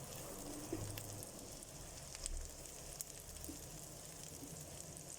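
Chopped onion frying in a pan, sizzling faintly as it browns, with a few light ticks and pops.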